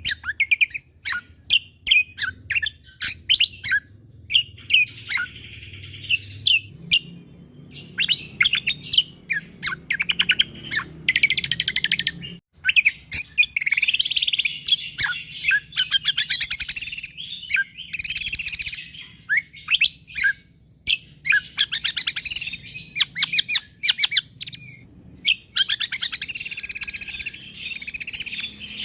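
Cucak kombo (kecial kombok) songbird singing energetically in dense, rapid strings of sharp, high chirps and trills, broken by brief pauses about twelve and twenty seconds in.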